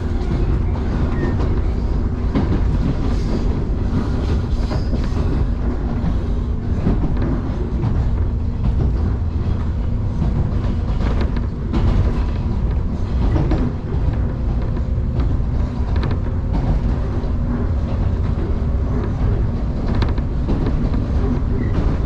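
Electric train running on the JR Kusatsu Line, heard from on board: a steady low rumble of wheels on rail with a constant motor hum and scattered clicks from rail joints.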